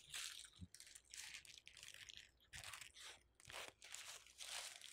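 Close-miked chewing of a crispy fried chicken sandwich: faint, irregular crunches, one or two a second.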